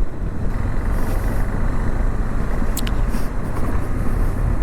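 Steady rush of wind and road noise on a moving motorcycle, with the KTM 390 Adventure's single-cylinder engine running beneath it. A short high tick comes about three seconds in.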